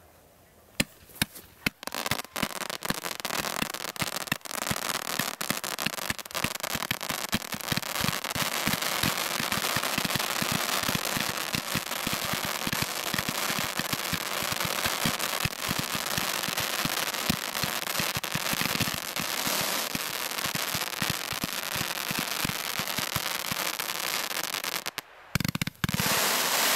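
Ground firework fountains going off: a few sharp bangs, then a dense, continuous crackle of many rapid small pops for about twenty seconds. It breaks off briefly near the end before a last loud burst.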